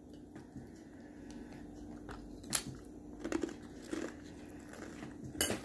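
A person biting into and chewing a multigrain chip topped with guacamole: a few sharp crunches with softer chewing between.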